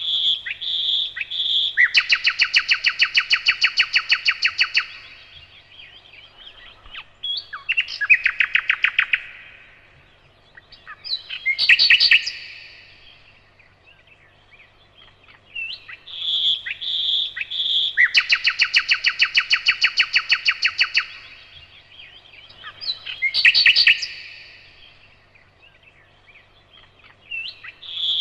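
Nightingale singing: phrases of fast repeated notes with pauses of a few seconds between them, including two long trills of about three seconds each.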